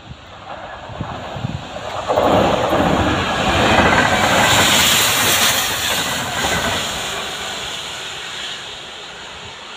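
Class 66 diesel locomotives and water-tank wagons of a rail head treatment train passing at speed, rising sharply about two seconds in and then fading as the train draws away. A loud hiss rides over the rumble of the engine and wheels at the peak, from the train's high-pressure water jets blasting leaves off the railhead.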